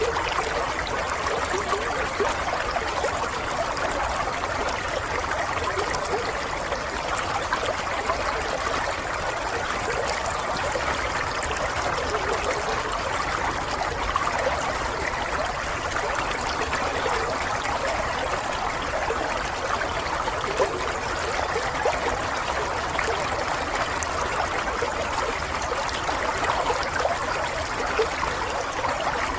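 Water running steadily in a small stream, a continuous trickling and burbling with no change in level.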